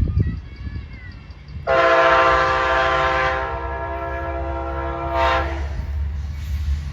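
Amtrak passenger diesel locomotive's air horn sounding one long blast of about four seconds, starting about two seconds in, over the low rumble of the approaching train.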